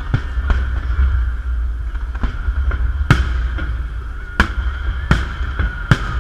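Fireworks salute: shells bursting in sharp bangs, about seven at irregular intervals, over a steady high tone and a low rumble.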